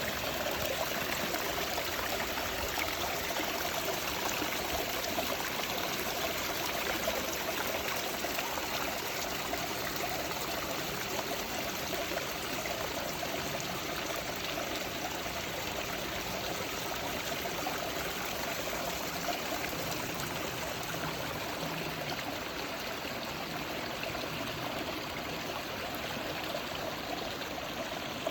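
Small mountain stream trickling and gurgling over rocks, a steady running-water sound.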